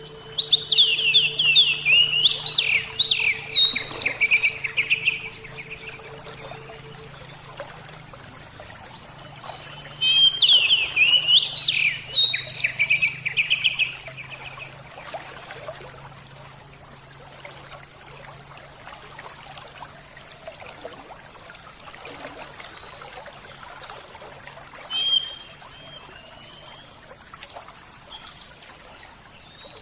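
Oriental magpie-robin singing in three bouts of quick, varied whistled phrases, the last one short, over a steady trickle of water.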